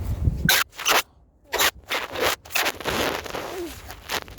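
Irregular scraping and crunching noises, about two or three short strokes a second with brief gaps between them.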